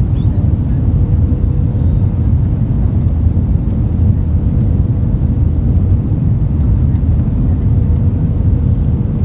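Airbus A320neo cabin noise: a steady low rumble of engines and airflow, with a faint steady tone above it.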